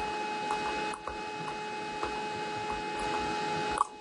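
A steady electrical hum with two fixed tones over a faint hiss, with light clicks now and then and a sharper click near the end.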